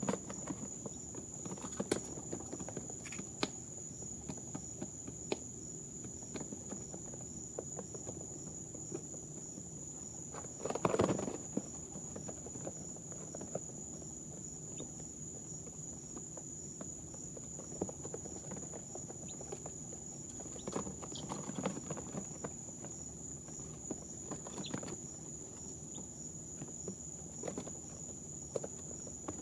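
Baby chicks moving about on brooder bedding: scattered light taps and rustles, with a louder scuffle about eleven seconds in, over a steady high-pitched whine.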